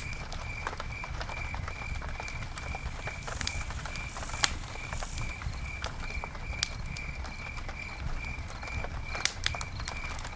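Campfire burning: wood crackling with frequent sharp pops over a low rumble of the flames. A steady high-pitched chirp pulses about twice a second behind it.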